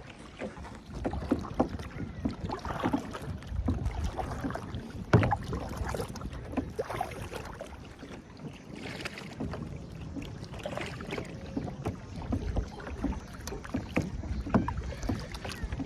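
Kayak paddle strokes: irregular splashes and drips of water with occasional knocks of the paddle against the hull, the sharpest about five seconds in. Wind rumbles on the microphone throughout.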